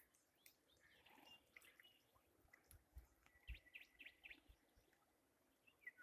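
Near silence outdoors with faint bird chirps, a few short high notes scattered through, and a few soft low thumps around the middle.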